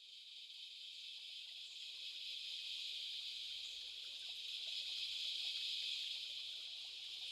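A steady chorus of insects: a dense, even high buzz that swells in over the first couple of seconds and then holds.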